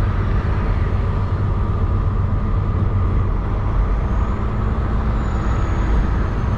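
Semi truck's diesel engine and road noise heard inside the cab while driving, a steady low rumble.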